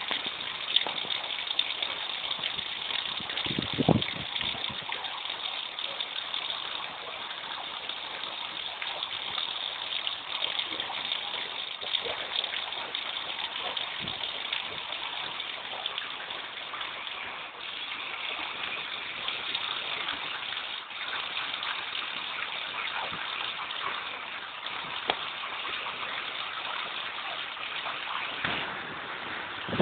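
Steady rush of floodwater from the heavy rains, running without a break, with a brief thump about four seconds in.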